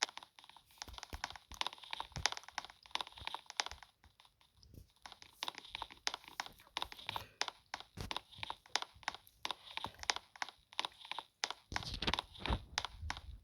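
A faulty camera microphone crackling and clicking irregularly, dropping nearly out for a moment about four seconds in: the microphone is cutting in and out.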